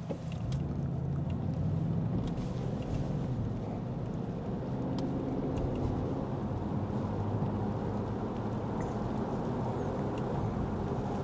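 Lexus ES 350 sedan driving on a wet road, heard from inside the cabin: a steady low hum of engine and road noise with a haze of tyre hiss.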